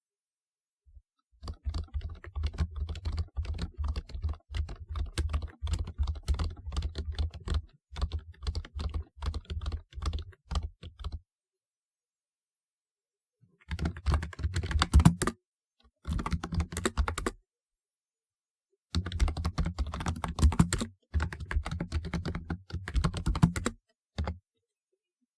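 Fast, continuous typing on a typewriter-style computer keyboard, dense key clicks with a solid bottom-out thud. Typing runs for about ten seconds, stops briefly, then comes back in three shorter bursts.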